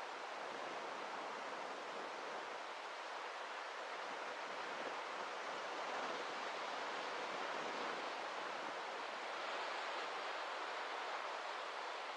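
Steady rushing of water, an even hiss with little low rumble that swells slightly a few times.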